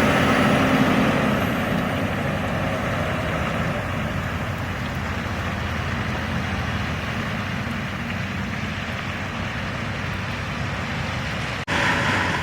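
A heavy vehicle's engine running steadily under road noise, a little louder in the first second or so. The sound drops out for an instant near the end.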